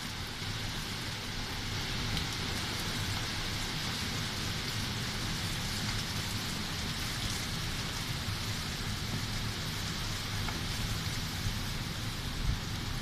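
Heavy rain pouring steadily, with a low, uneven rumble of wind underneath.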